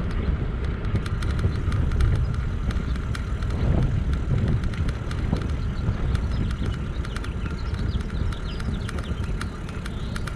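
Electric bike in motion: a steady low rumble of tyres and wind on the microphone, with frequent small clicks and rattles.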